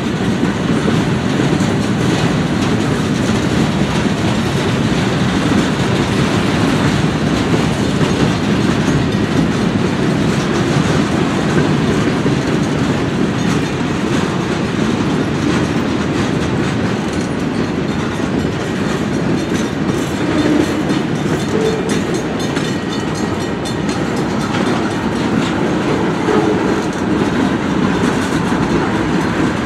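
Freight train of covered hopper cars and tank cars rolling past close by, its steel wheels running on the rails in a steady, loud noise that carries on without a break.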